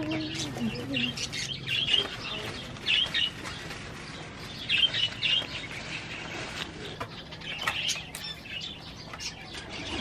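Small birds chirping in short clusters of high tweets that come again several times.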